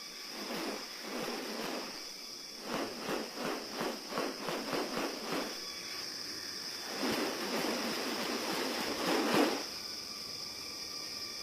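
Rainforest ambience with a steady high-pitched insect drone. Over it come loud rustling, whooshing bursts: a quick run of about three a second, then a longer swelling rush that cuts off suddenly.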